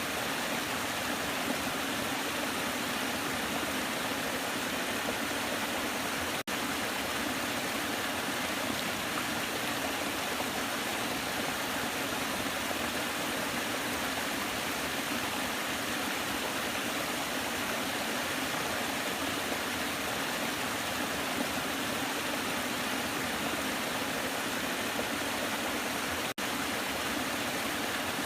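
Waterfall: a steady, even rush of falling water, broken twice by a split-second dropout.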